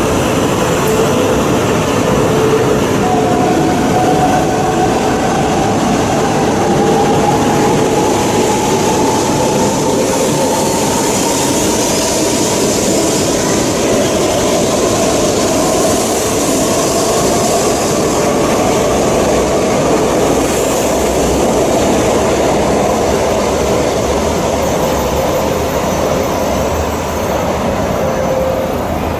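Shinkansen train running at speed: a steady loud rumble and rush of noise, with a faint whine that slowly rises in pitch.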